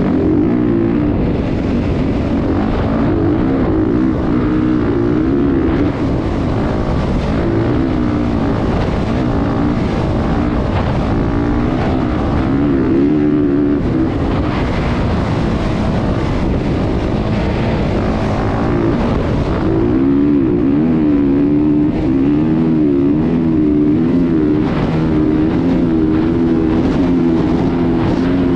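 Motocross dirt-bike engines running loudly. The pitch wavers up and down constantly as the throttle is worked, rising again near the end after a short lull.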